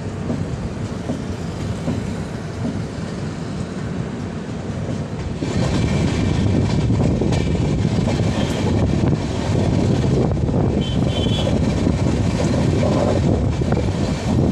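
Passenger train running on the rails, a steady rumble of wheels on track that gets louder and fuller about five and a half seconds in.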